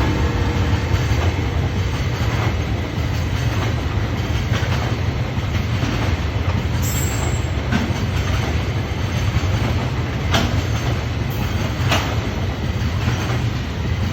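Freight train of tank wagons rolling past with a steady, loud rumble of wheels on rail. A few sharp clicks from the wheels crossing rail joints are heard at irregular intervals.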